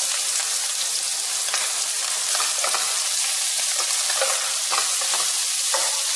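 Shredded chicken, onion and garlic sizzling in a little hot oil in a nonstick wok: a steady high hiss, broken by a series of spatula strokes against the pan as the food is stirred.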